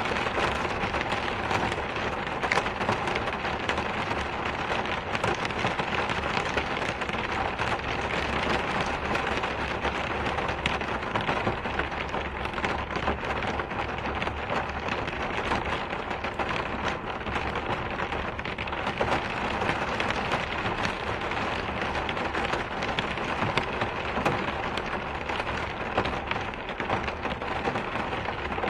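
Steady rain falling, a dense even patter of many drops with no let-up.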